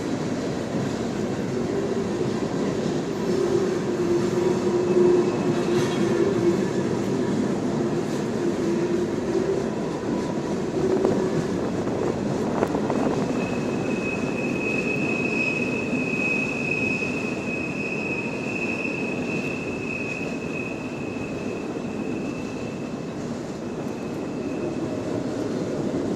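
CN freight train's cars rolling past on the rails with a steady rumble, and a high, steady wheel squeal from the cars' flanges that begins about halfway through and fades out near the end.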